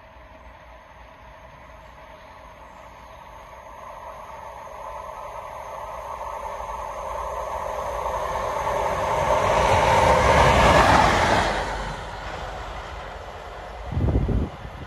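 A diesel Network Rail test train approaching and passing at speed, its engine note and wheel noise growing steadily louder to a peak about ten seconds in, then dropping away. A brief low rumble near the end.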